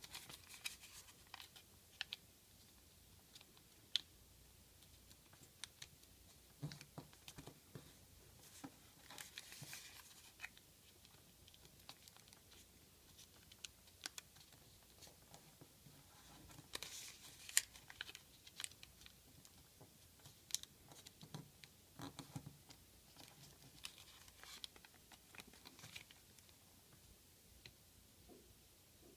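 Faint rustling and crinkling of a sheet of origami paper being folded and creased by hand, with scattered soft clicks and short crackles as folds are pressed down.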